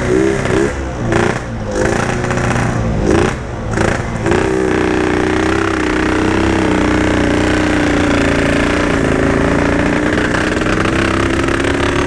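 Yamaha RX-King two-stroke single-cylinder engine blipped in several short, uneven revs, then held at a steady fast idle from about four seconds in. The engine is running poorly, with a spark plug the rider finds wet and flooded.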